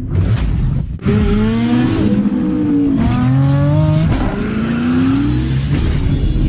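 Car engine revving sound effect, its pitch climbing and falling several times, with a sharp hit about a second in.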